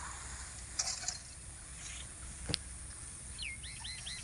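A bird calling near the end: a quick run of about six short whistled notes, each falling in pitch, over a steady low outdoor rumble. A brief rustle about a second in and a single sharp click about two and a half seconds in are the loudest moments.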